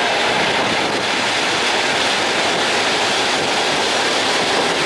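Steady rushing noise of a train running along the track, heard from on board.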